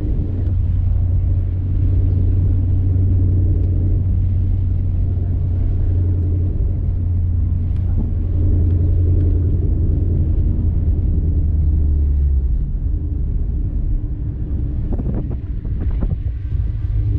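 Ford Mustang GT's 5.0 V8 with a full aftermarket exhaust, running steadily at low revs with a deep, even exhaust drone heard from inside the car. The deepest part of the drone eases off about twelve seconds in.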